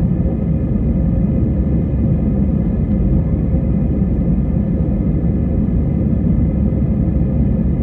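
Steady low rumble of an Airbus A320-family airliner's jet engines and airflow, heard inside the cabin at a window seat, with a faint steady hum over it and no change in pitch or level.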